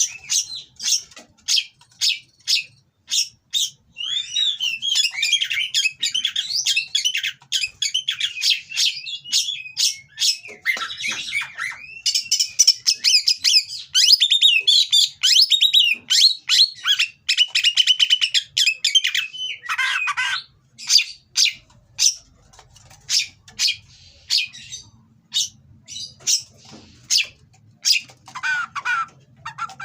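Oriental magpie-robin (kacer) singing harsh song: a series of sharp, evenly spaced notes, then a long, fast, varied run of rasping and whistled phrases from about four seconds in, easing back to scattered sharp notes near the end.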